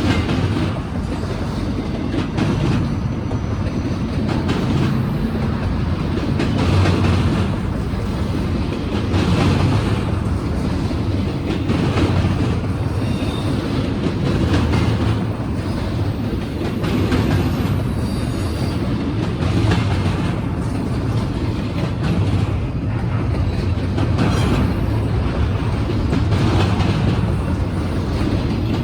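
Norfolk Southern freight train cars rolling past, the wheels clicking over the rail joints, with the sound swelling about every two and a half seconds as each car goes by.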